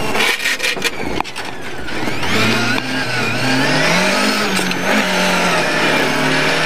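Lada 1200 rally car's four-cylinder engine heard from inside the cabin, through a left hairpin on a snowy stage. For about the first two seconds the engine is low amid tyre and chassis noise with a few sharp knocks; then it pulls hard, its note rising for about two seconds before levelling off at high revs.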